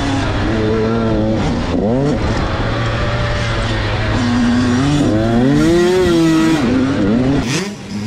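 Several motocross bikes racing on the track, their engines revving up and down in overlapping rising and falling tones through gear changes, loud. The low end drops away about seven and a half seconds in.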